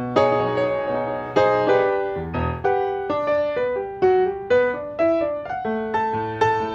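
Background music: solo piano playing a gentle melody over chords, the notes struck one after another and left to ring.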